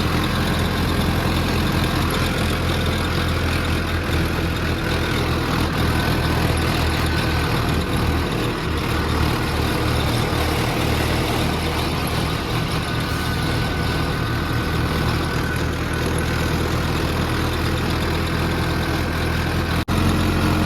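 Mahindra Arjun 555 tractor's diesel engine running steadily while hauling a trolley loaded with wood, with a brief break just before the end.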